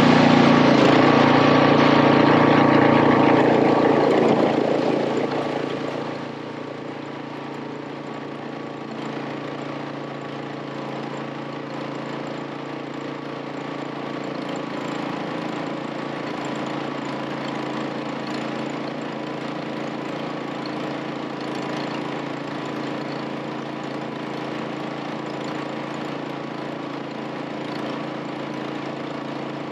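A vehicle engine running steadily, louder and rougher for about the first five seconds, then settling into a lower, even hum.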